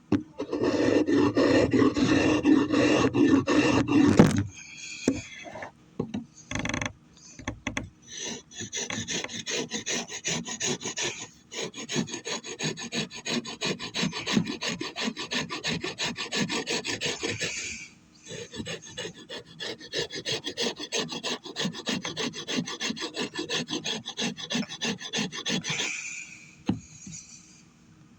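A rasp or file being worked over an oak hammer handle in quick, repeated scraping strokes, shaping the wood to fit the sledgehammer head. The first few seconds are louder and fuller, and the stroking pauses briefly about two-thirds of the way through.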